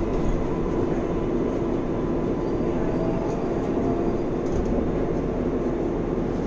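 Inside a moving New York City 7 subway train: a steady rumble and hum of the car running on the track, with a faint rising motor whine about midway.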